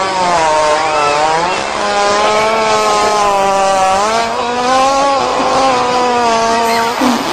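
A hippopotamus's long, loud fart, one unbroken pitched tone that wavers slowly up and down and shifts pitch near the end.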